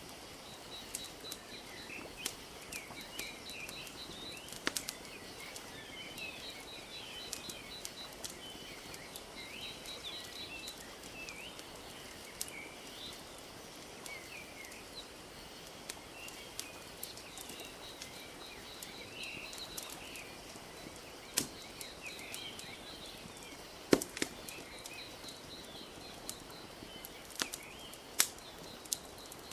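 Wood fire crackling, with scattered sharp pops; the loudest comes about two-thirds of the way through. Underneath, small birds chirp and twitter steadily, with a fast repeated trill.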